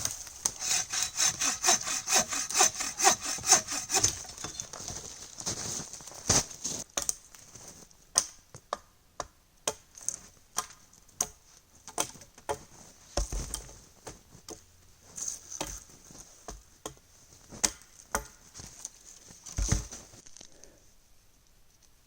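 Hand saw cutting through wood in quick, even strokes, about three a second, for roughly four seconds. Then irregular sharp clicks and snaps of wood that thin out and stop near the end.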